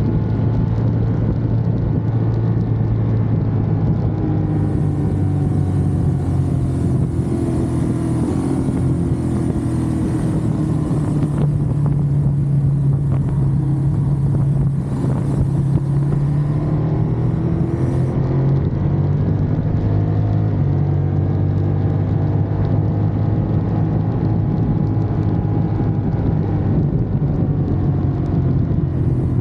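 Ducati Monster's V-twin engine running on the move, its pitch slowly rising and falling with the throttle.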